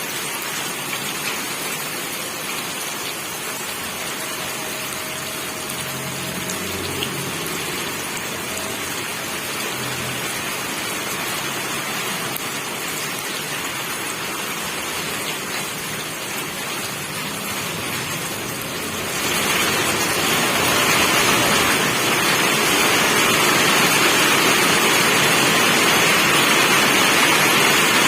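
Steady rainfall, an even hiss of many drops, which turns louder and heavier about two-thirds of the way through.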